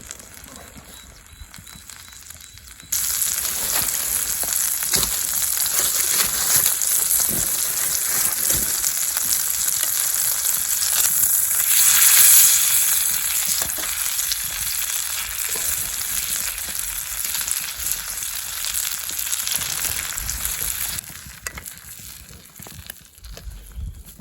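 Steak sizzling in a hot pan: the sizzle starts suddenly about three seconds in, as the meat goes onto the hot metal, swells around the middle, and drops away sharply near the end.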